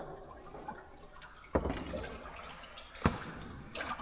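Two sharp thumps about a second and a half apart, over a bed of dripping water in a cave.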